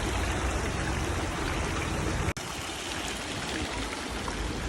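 Water fountain splashing steadily, with a brief dropout a little over two seconds in, after which it is slightly quieter.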